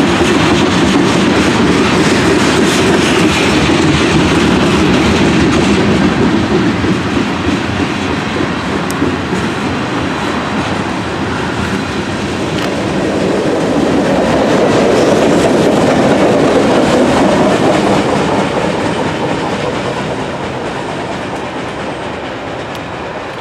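Freight train cars rolling past close by: a steady rumble and rattle of steel wheels on rail that swells once, then fades near the end as the last car passes and moves away.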